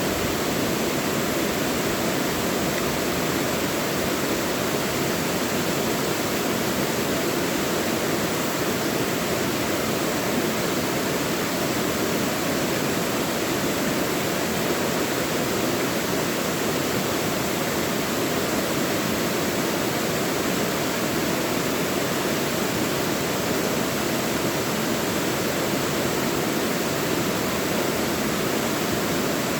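Mountain stream rushing steadily over rocks in a valley, an even, unbroken rush of water.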